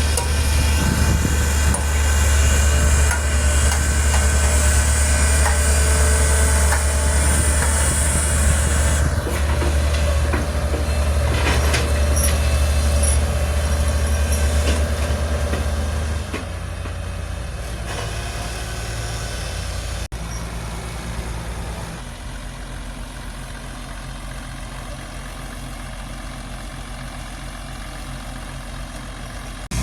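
Heavy diesel engines of earthmoving machinery, an excavator and a crawler bulldozer, running hard with a strong low drone. The level drops about halfway through and again a few seconds later, as the engines ease off to quieter running.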